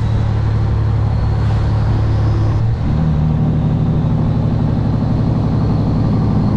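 Kenworth W900 semi truck's diesel engine running under way, heard from inside the cab as a steady low drone. About three seconds in there is a brief dip in loudness and the engine note changes pitch, then it carries on steadily.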